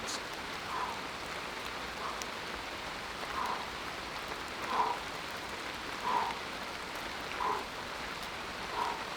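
Steady rain falling through the forest, an even hiss, with a soft short sound repeating about every second and a half over it.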